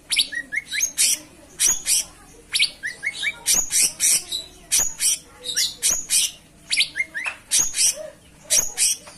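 Cucak cungkok songbird singing continuously. It repeats phrases about once a second, each made of sharp, high chirps and a few short upward-sweeping notes.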